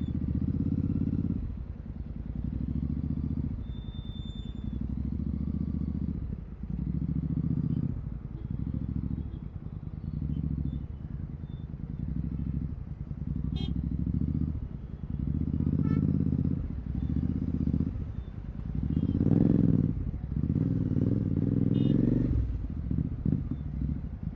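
Royal Enfield Continental GT 650's 648 cc parallel-twin engine running through a Red Rooster aftermarket exhaust with the dB killer removed, its note rising and falling in short swells every second or two as the throttle is opened and closed.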